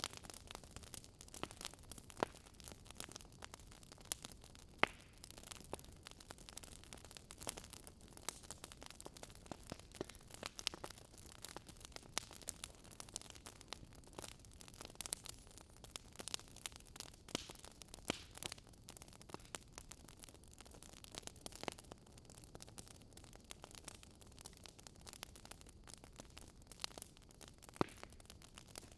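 Wood fire crackling in a fireplace: irregular sharp pops and snaps over a low, steady hiss, one snap near five seconds in standing out.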